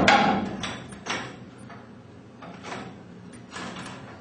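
Steel winding bars knocking in the winding cone of a garage door torsion spring as the spring is unwound a quarter turn at a time: one loud knock at the start, then several lighter knocks.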